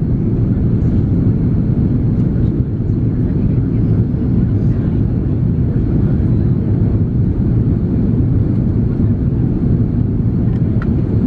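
Steady in-cabin noise of an Airbus A330-300 in flight on its descent: a constant low rush of airflow and Pratt & Whitney PW4168A engines, with most of the sound in the low range.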